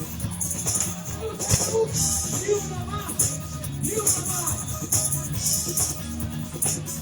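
Live band music in an instrumental passage, with a steady bass and a shaker rattling in a regular rhythm on top.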